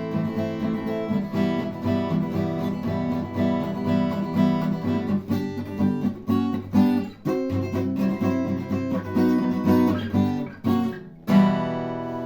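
Acoustic guitar strumming chords in a steady rhythm as the song's outro, ending on one final strummed chord about eleven seconds in that is left to ring and fade.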